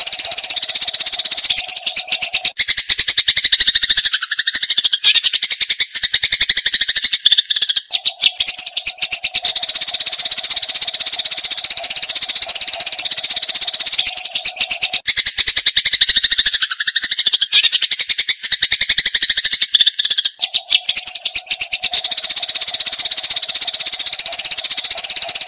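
Eurasian tree sparrows in a fast, unbroken fighting chatter: a dense rattle of high chirps. The same pattern comes round about every twelve seconds, and a steady lower tone sits under it for stretches.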